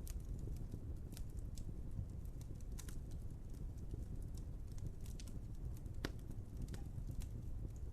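Wood fire burning: a low steady rumble with irregular sharp crackles and pops, the loudest about six seconds in.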